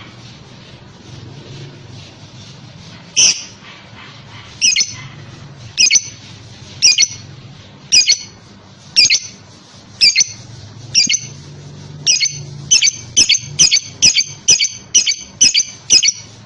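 Lovebird giving short, loud, shrill squawking calls, about one a second at first, then quickening to about two a second near the end.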